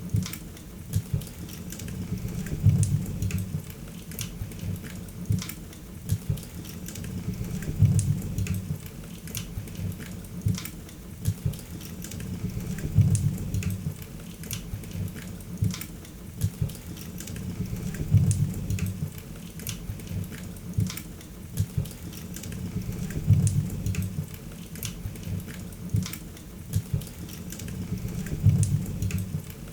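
Wood fire in a fireplace crackling, with frequent sharp pops over a low rumble of the flames that swells regularly about every five seconds.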